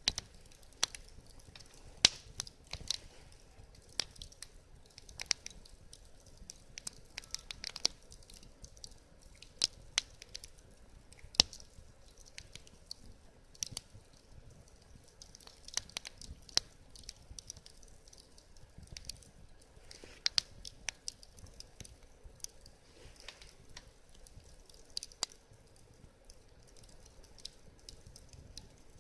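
Wood fire burning, crackling with irregular sharp pops and snaps, some louder than others, and short hisses from the burning wood.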